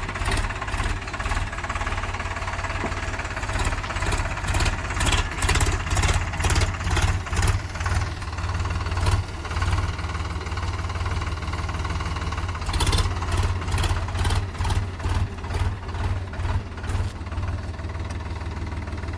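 Sonalika DI 35 Sikander tractor's diesel engine running under load, with a regular pulsing throb about twice a second that swells for a few seconds in the middle and again later on.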